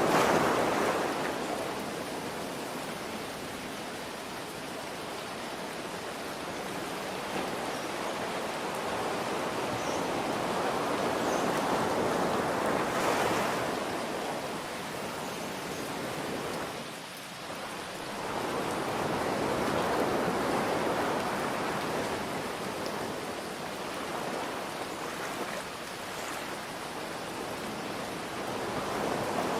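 Ocean waves breaking and washing in, swelling and ebbing every eight to ten seconds, over a steady hiss of falling rain.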